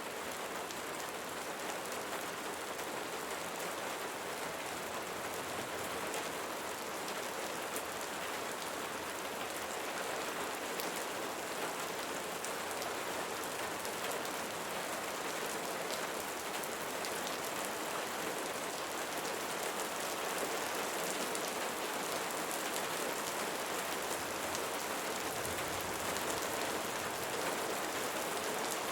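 Steady rain falling on a surface: a dense, even hiss with many small drop taps throughout.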